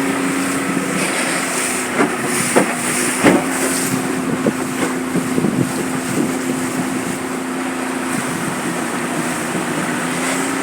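A small river boat's motor running steadily with an even hum, under wind on the microphone and water noise, with a few sharp knocks about two to three seconds in.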